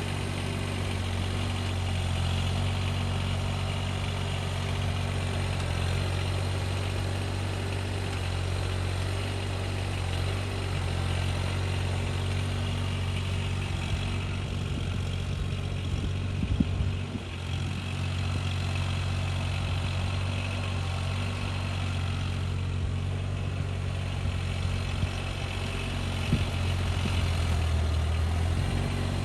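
An engine running steadily at a constant speed, with a brief knock partway through.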